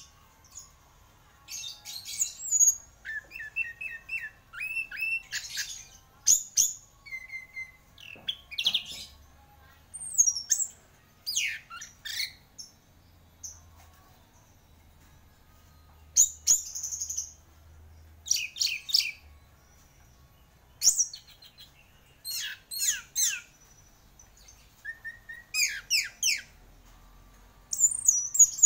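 Orange-headed thrush (anis merah) singing: short bursts of varied, high-pitched whistles and quick sweeping chirps, each phrase followed by a pause of a second or two.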